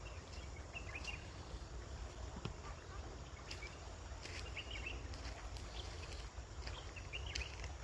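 Small birds chirping in short bursts about every three seconds, over a low steady rumble of outdoor ambience.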